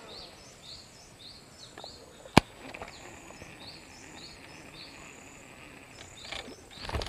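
Birds calling with short high chirps, about two a second, over rural outdoor ambience, with one sharp click about two and a half seconds in.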